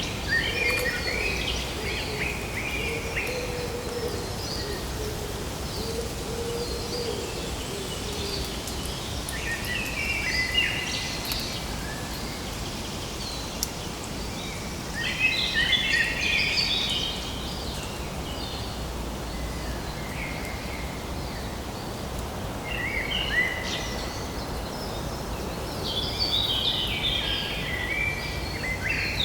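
Birds chattering in repeated bouts a few seconds apart, the calls fast and high, over a steady background hiss.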